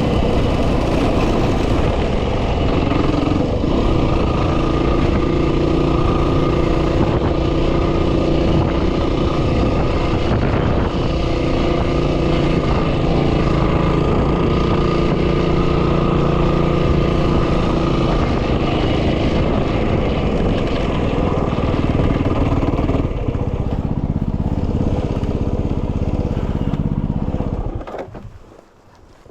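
Yamaha WR250R's 250cc single-cylinder engine running at a steady cruise, under heavy wind noise on the microphone. The engine note changes about two-thirds of the way through, and engine and wind die away sharply near the end.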